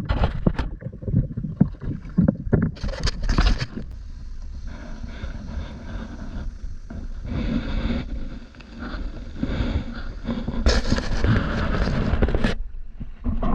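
Wind buffeting the microphone over water noise from a kayak on the water, with two louder washes of hiss, one about three seconds in and a longer one near the end.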